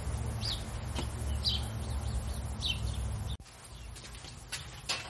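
A bird chirping: three short high chirps about a second apart. Under them a low rumble on the microphone stops suddenly about two-thirds of the way through, and a couple of faint clicks follow near the end.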